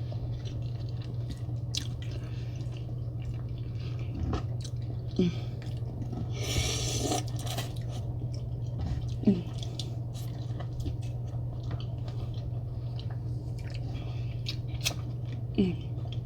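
Close-up eating sounds of a seafood boil in sauce: wet chewing, squishing and sucking, with scattered small clicks and a longer noisy slurp-like burst about seven seconds in, over a steady low hum.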